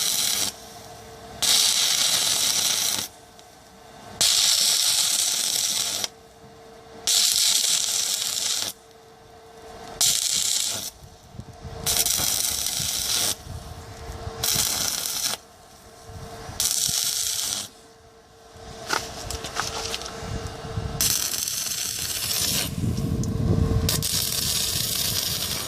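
A power tool run in repeated bursts of one to two seconds, stopping and starting about nine times, with a harsh, hissing high-pitched sound.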